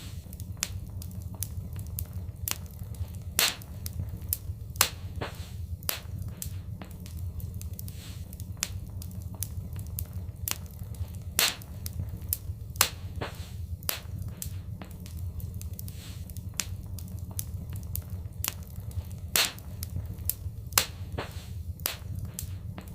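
Wood fire in a fireplace crackling, with irregular sharp pops, several louder than the rest, over a steady low rumble of the flames.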